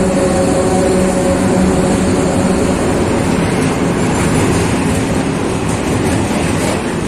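Freight train of coal wagons hauled by an ET41 electric locomotive rolling past, with a steady rush of wheel and rail noise. A humming tone fades out within the first few seconds.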